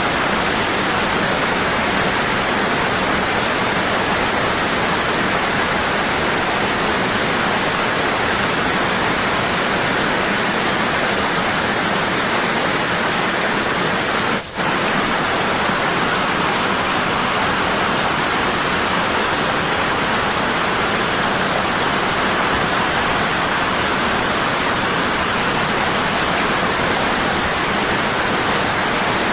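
Waterfall pouring strong and constant: a steady rush of falling water, with one brief dip in level about halfway through.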